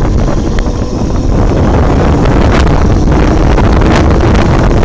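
Loud wind rush buffeting the microphone on a home-built alternator-motor electric bike riding at speed, with a faint steady motor whine underneath.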